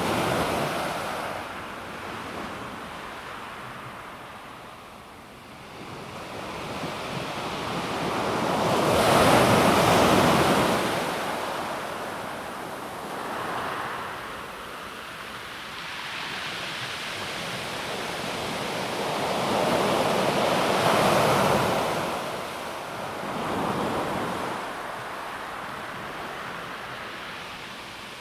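Calm sea waves breaking and washing over a pebble beach, the wash swelling and ebbing, loudest about nine and twenty-one seconds in, with smaller surges in between.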